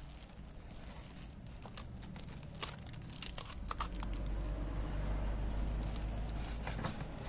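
Plastic packaging crinkling and rustling as it is handled, with scattered small crackles and clicks and a low rumble through the second half.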